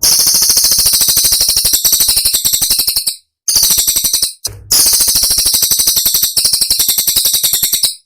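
Cililin songbird singing a loud, dense run of very high, sharp rapid-fire notes, broken by two brief pauses. It is the kind of piercing song used as training audio for other songbirds to copy.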